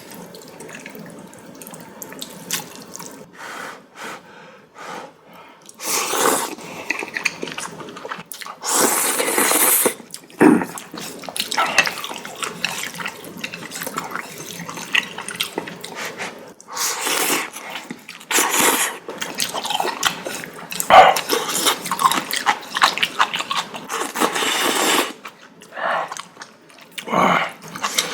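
A person slurping noodles: several long, loud slurps of about a second each, with wet chewing and mouth sounds between.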